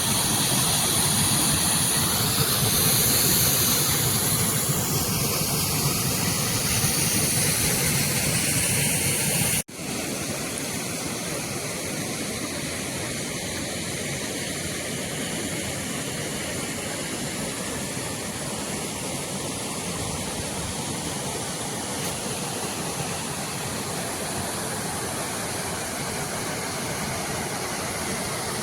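Steady, even rush of a waterfall, with a sudden cut about ten seconds in, after which it is quieter.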